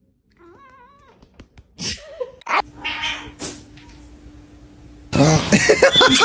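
A cat's wavering meow, followed by scattered clicks and rustling. About five seconds in, a much louder run of rapid short calls begins.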